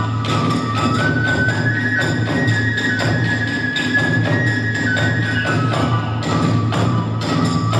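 Hiroshima kagura music: a high flute melody held in long stepping notes over fast, steady drumming and clashing hand cymbals.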